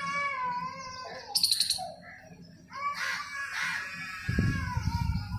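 A cat yowling: two long, wavering drawn-out calls with a short high chirp between them. A low rumbling noise comes in about a second before the end.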